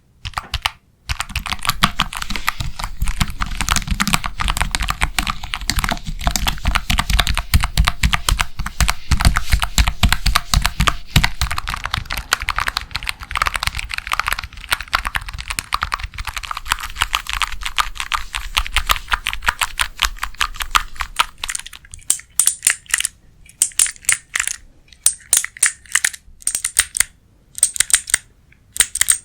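ASMR tapping close to the microphone: rapid, dense tapping and clicking with a low knock underneath for about twenty seconds, then sparser, sharper clicks in short clusters near the end.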